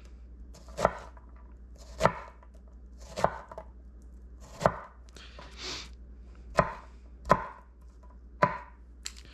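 Kitchen knife dicing an onion on a cutting board: separate sharp chops at an uneven pace of about one a second, eight in all.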